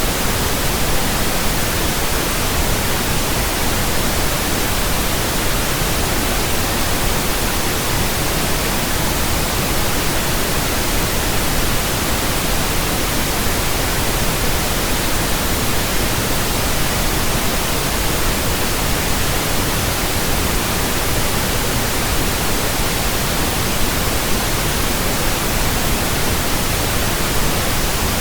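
Steady pink noise from a pink noise generator: an even, unchanging hiss across the whole range, used as a burn-in signal for speakers, headphones and earphones.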